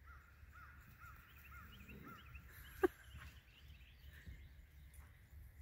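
A bird calling faintly in a quick series of short arched whistled notes, a few higher chirps following. One short sharp call nearly three seconds in, with a steady low wind rumble underneath.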